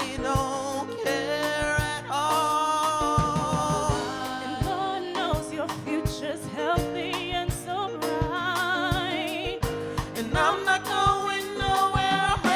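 Soul music played by a band: a singer's held, wavering notes with vibrato over a steady drum beat and backing instruments.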